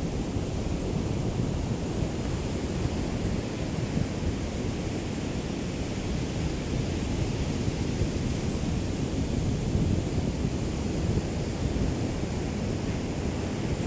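Small waves of a calm sea lapping on the shore in a steady wash, with a light breeze rumbling on the microphone.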